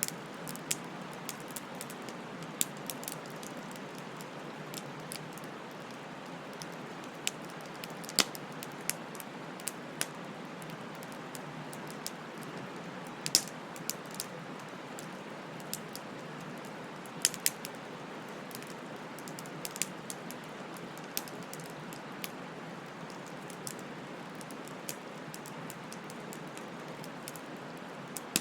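Wood fire burning with a steady hiss and irregular sharp crackles and pops from the burning wood, a few louder snaps among them.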